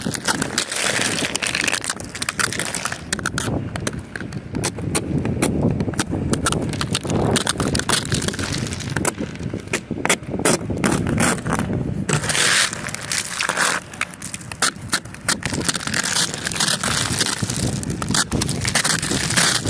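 Ice crunching and scraping, with many irregular cracks and clicks that go on throughout.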